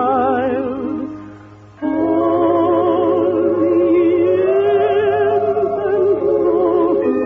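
Sung song with vibrato in a light-operatic style over orchestral accompaniment, from an early-1950s radio broadcast. The music fades away about a second in and comes back abruptly just under two seconds in, with a steady low hum underneath.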